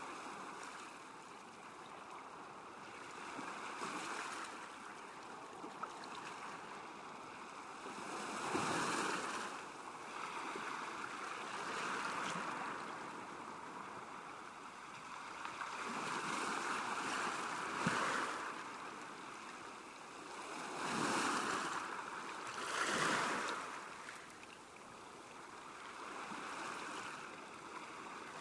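Small waves lapping at a lakeshore, each one swelling and washing in every few seconds over a steady rush of water.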